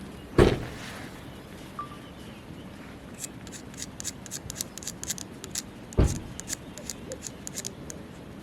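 Two heavy knocks about five and a half seconds apart, with a quick run of sharp, dry crackles from burning firewood between them.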